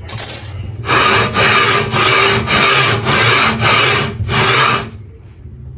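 Hand saw cutting through wood in rough back-and-forth strokes, about two a second, for roughly four seconds before stopping.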